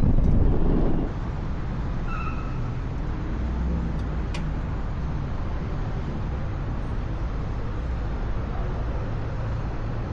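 Honda CBR650R's inline-four engine running: louder for about the first second, then settling into a steady low hum.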